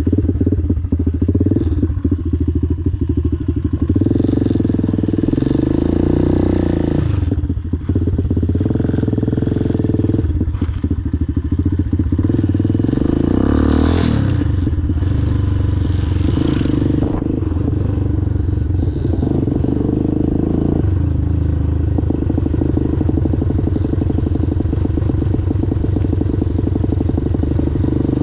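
Motorcycle engine running steadily as the bike is ridden, its note rising and dropping several times with the throttle. A few short surges of rushing noise come and go along the way.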